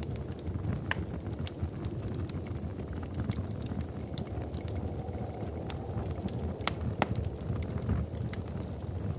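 Wood fire crackling in a fireplace: scattered sharp pops and snaps over a low steady rumble, with a couple of louder pops about seven seconds in.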